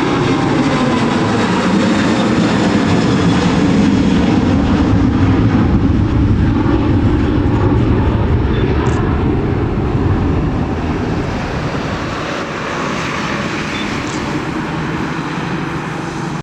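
A jet airliner's engines roaring as it passes on the runway, a loud rushing noise with a tone that slides down in pitch early on, easing off after about ten seconds.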